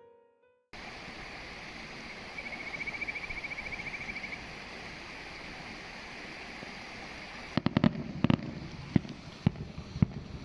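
Steady outdoor hiss with a brief high, fast trill a couple of seconds in. Near the end comes a cluster of short, sharp clicks and knocks.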